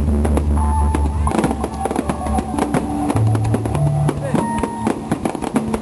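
Music with a deep bass line stepping from note to note, mixed with many sharp cracks and bangs from fireworks going off.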